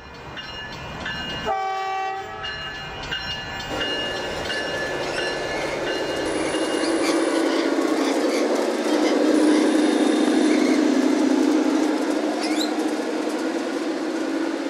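Garden-scale model diesel railcar sounding a short horn blast about a second and a half in, then running along the track with a rolling rumble of motor and wheels that grows, is loudest a little past the middle, and eases off. Short bird chirps come near the end.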